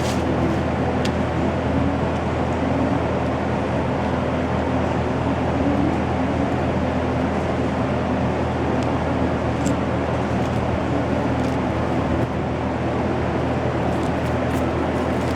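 A machine running steadily with a constant low, even drone, and a few faint light clicks scattered through it.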